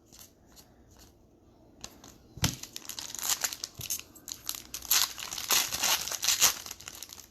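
Plastic wrapper of a trading-card pack being torn open and crinkled. There are faint light rustles at first, then loud, dense crackling and tearing from about two and a half seconds in.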